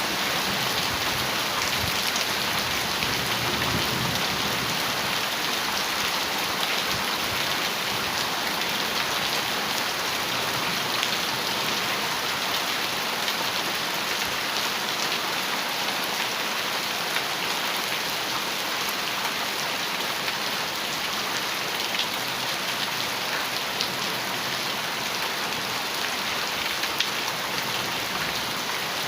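Heavy rain falling steadily on a metal roof: a dense, even hiss with many small drop ticks.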